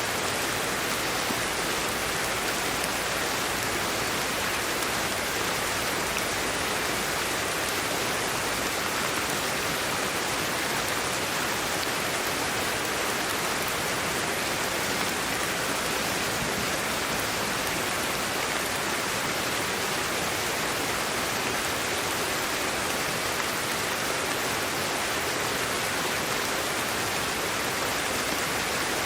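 Steady sleep-aid white noise: an even hiss, unchanging throughout, with no breaks or separate sounds in it.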